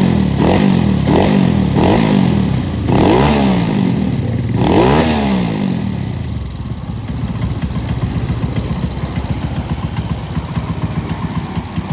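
Honda Scoopy scooter's single-cylinder four-stroke engine, bored to 130cc and fitted with a TZM aftermarket exhaust, being blipped: several quick rev blips, then two longer revs. About six seconds in it settles to a fast, even, pulsing idle.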